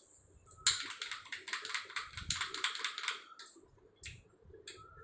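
A whisk stirring melted dark compound chocolate in a bowl, clicking rapidly against the sides for a couple of seconds, then two single taps near the end.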